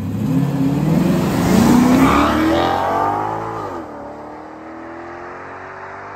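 Maserati Quattroporte's Ferrari-derived V8 accelerating hard, its pitch climbing and loudest about two seconds in. About three and a half seconds in the pitch drops with an upshift, and the engine pulls on more quietly as the car draws away.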